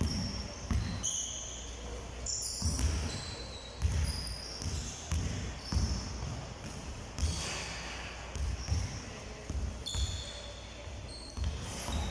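Basketballs bouncing on a hardwood gym floor, several dull thuds every second or so, with short high sneaker squeaks in between.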